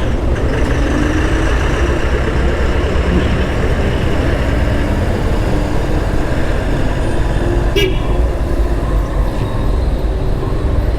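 Motorcycle ride through town traffic: steady engine and road noise with a low rumble, and a brief vehicle horn toot about eight seconds in.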